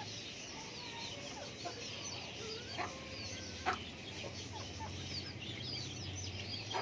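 Backyard chickens clucking, with many short, high chirps scattered throughout and a few louder short calls. A low, steady hum runs underneath.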